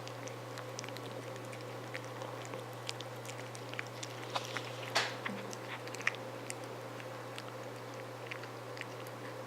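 A cat chewing and biting its food, with irregular small clicks and one louder click about halfway through, over a steady low hum.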